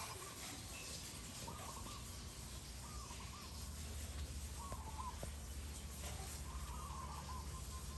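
A bird calls over and over, each call a short cluster of notes coming about every second and a half, over a steady low background rumble.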